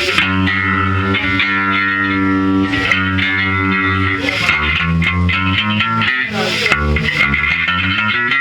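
Rock band music: distorted electric guitar run through effects over bass, held chords and notes that change every second or two at a steady, loud level.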